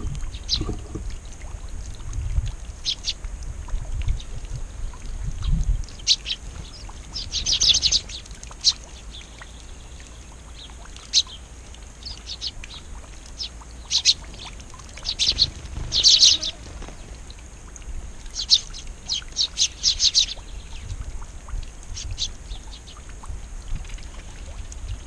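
Small songbirds chirping in short, scattered calls, several coming in quick clusters, over a steady faint high hiss. Low rumbling bumps sound in the first few seconds.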